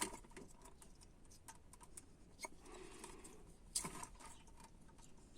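Faint scattered clicks and light taps of parts being handled while the fuel pump's hoses and power wires are disconnected. There is a louder click right at the start and another a little under four seconds in.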